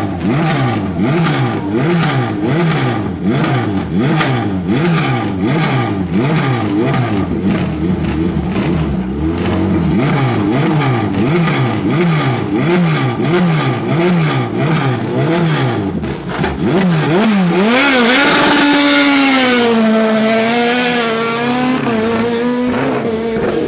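Race car engine on a hill-climb course, its pitch climbing and dropping sharply over and over as the throttle is worked on and off. About 17 seconds in, a louder, brighter engine sound takes over, its pitch wavering and then settling lower.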